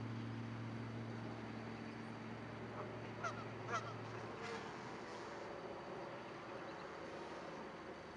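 Two short, honk-like bird calls about half a second apart, a little over three seconds in, with a fainter call soon after. Under them a low steady hum stops about four seconds in.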